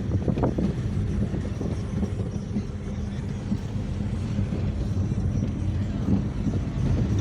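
Taxi driving along, its engine running with a steady low hum over tyre and road noise.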